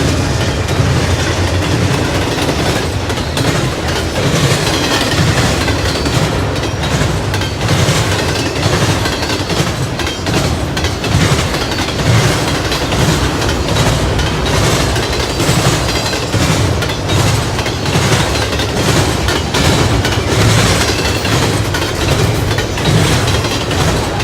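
Freight train cars rolling past, a steady rumble with repeated clicks of the wheels crossing rail joints.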